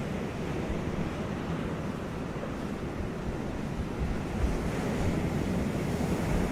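Ocean waves breaking on a beach, a steady wash of surf that swells a little louder about four seconds in, with some wind on the microphone.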